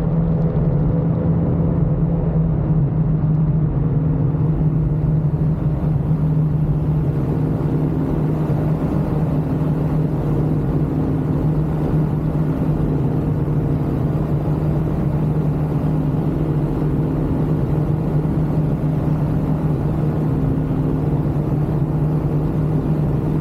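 Ultralight aircraft engine running at a steady speed in flight: a constant drone that holds one pitch throughout.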